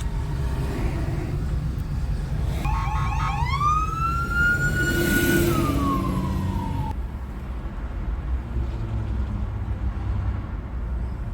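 Police car siren giving a few quick yelping chirps, then one wail that rises, holds and falls away, about three to seven seconds in, over the steady low rumble of vehicles.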